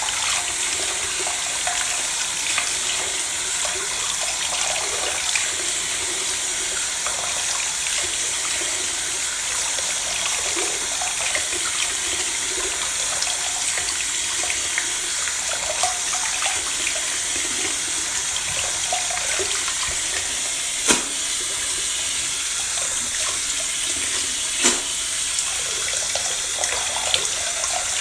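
Steady rush of water running from a tap into a sink, with small scattered knocks and two sharper clicks in the last third.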